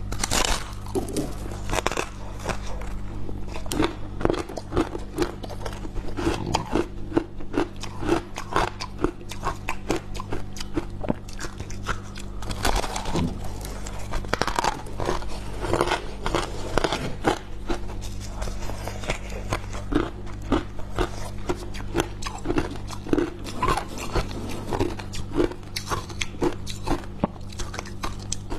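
Freezer frost being bitten and chewed close to the microphone: many crisp, irregular crunches, several a second, over a steady low hum.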